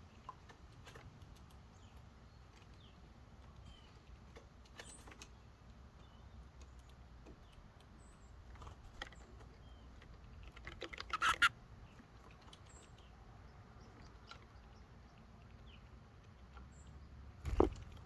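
Small birds feeding at a wooden bird feeder: scattered pecking taps and scrabbling on the wood, with a few faint high chirps. A quick run of louder clicks comes about eleven seconds in, and a single thump near the end.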